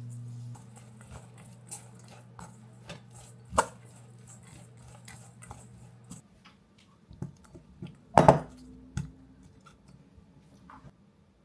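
Kitchen food-prep sounds: scattered knife knocks and clicks on a cutting board, with two louder knocks, one about three and a half seconds in and one about eight seconds in. A steady low appliance hum runs underneath and cuts off about six seconds in.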